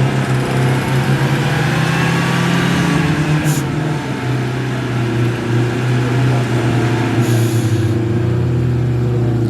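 An off-road 4x4's engine running at a steady pitch, with a brief hiss about three and a half seconds in and again near seven and a half seconds.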